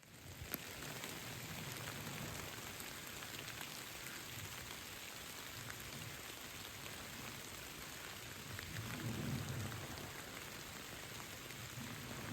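Steady rain falling in woodland, an even hiss, with low muffled rumbles now and then, strongest about nine seconds in.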